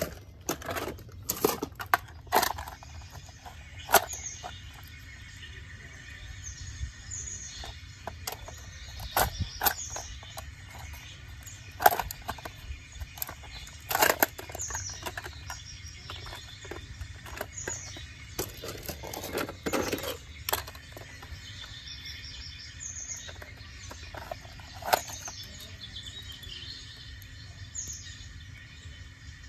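Small birds chirping in short, high, repeated calls, with scattered sharp clicks and knocks in between.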